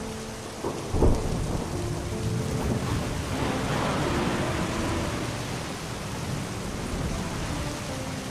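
Steady heavy rain with a sharp thunderclap about a second in, followed by a long rolling rumble of thunder that swells and slowly fades. Soft music with held notes lies faintly underneath.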